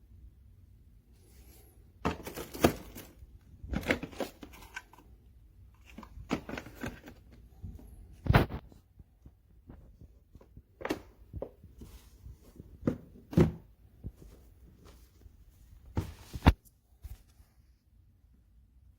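A dozen irregular sharp knocks and clicks of hard objects, some in quick pairs, with the sharpest strokes about eight seconds in and near the end.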